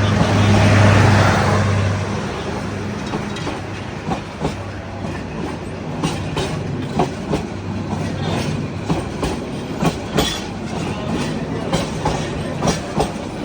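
Train passing close by. A low engine hum is loudest in the first two seconds, then the wheels clatter over the rail joints with many irregular sharp clicks.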